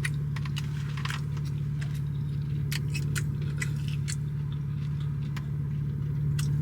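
Someone eating a fried chicken tender: chewing, with scattered small clicks and rustles, over a steady low hum.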